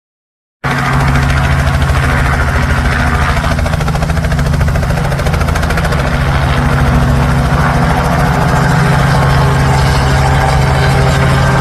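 Helicopter running loudly and steadily, a low engine hum with a fast, even beat. It cuts in abruptly about half a second in.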